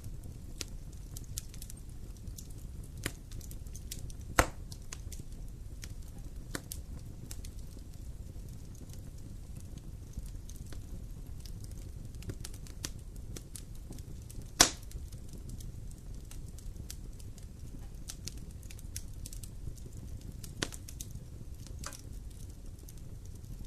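Wood campfire crackling: scattered small pops over a low steady rumble, with two sharper pops, one about four seconds in and one about halfway through.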